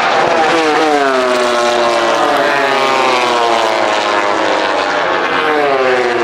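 MotoGP race bikes at speed, their high-revving four-stroke engines falling steadily in pitch as they go by; another bike passes, its note also falling, near the end.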